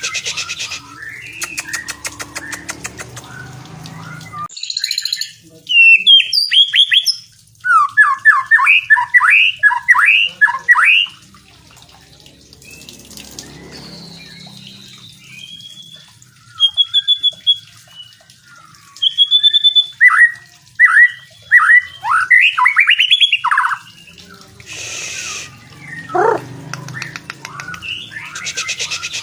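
White-rumped shama (murai batu) singing: loud runs of rapid, sweeping whistled notes in two long bouts, with softer chirps and buzzy calls between them.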